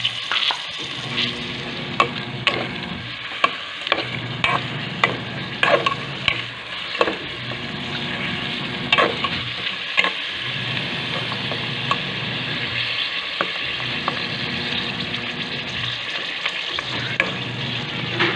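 Adobo meat sizzling steadily in a metal pot as it is stirred, with a run of sharp clinks from the spoon against the pot in the first half and one more near the end.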